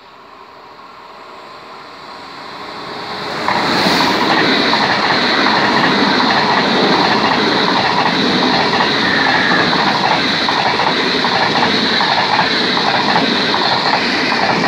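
ÖBB Railjet passenger train approaching and then passing close at speed. A swelling noise jumps sharply about three and a half seconds in as the train reaches the spot, then becomes a steady loud rush of wheels on rail with rapid rhythmic clicks over the rail joints and a high hiss.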